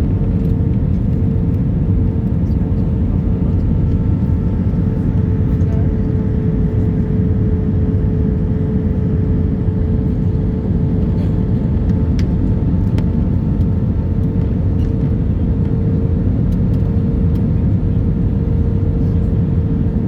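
Steady drone of an Airbus A319 in flight, engine and airflow noise with a constant whine, as heard inside the cabin on approach.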